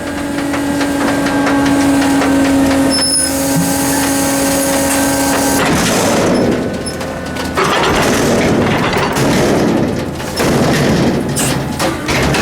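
Hydraulics of a 1995 Ford L8000 Loadmaster front-load garbage truck at work. The pump whines on one steady pitch for about the first half, then stops about halfway through and gives way to a stretch of rough, noisy clatter.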